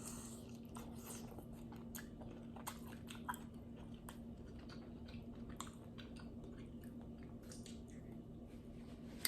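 Faint chewing and small mouth clicks of someone eating a seafood boil close to the microphone, over a faint steady hum.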